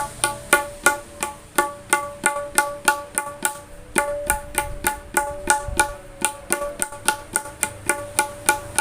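A dangdut 'tak' (ketipung) hand drum with a three-layer skin head, played in a fast steady rhythm of about four to five strokes a second. The strokes are crisp and ring with a clear tabla-dayan-like pitch.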